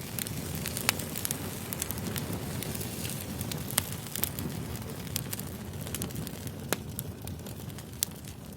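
Campfire crackling: a steady low rumble of burning wood with irregular sharp pops, a few of them louder than the rest.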